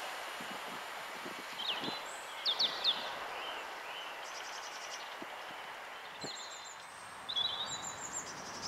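Small birds chirping in short, sharp calls, in two bouts, over the fading sound of a train pulling away.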